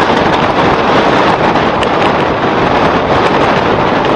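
Passenger train coaches rolling past on the rails: a steady, loud rush of wheel and track noise with a few faint clicks.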